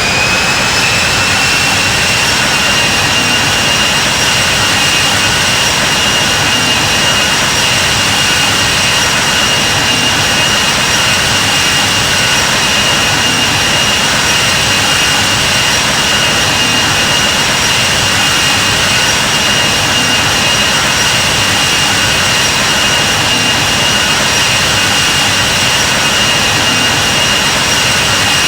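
Jet airliner's turbofan engines running steadily at takeoff thrust: a loud, even rush with a high steady whine.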